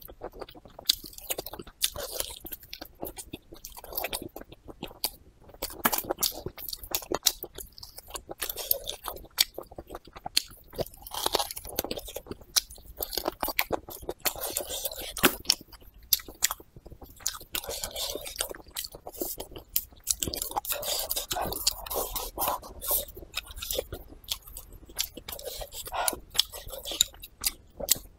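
A person biting and chewing braised pork trotter close to the microphone, with many quick, irregular clicks and smacks of eating.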